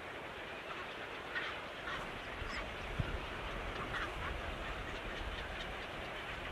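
Short, repeated bird calls over a steady background hiss, with a single sharp click near the middle.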